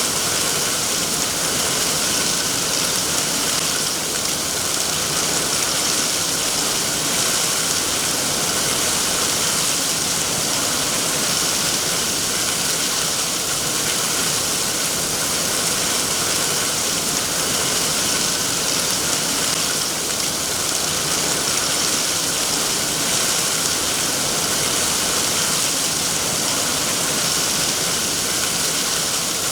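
Steady, even rainfall: a continuous hiss of rain with no distinct drops or other events.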